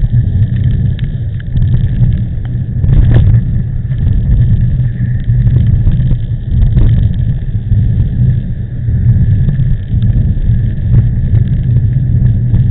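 Strong typhoon wind buffeting a bike-mounted camera's microphone while cycling: a loud, steady low rumble that rises and falls in gusts, with a sharp knock about three seconds in.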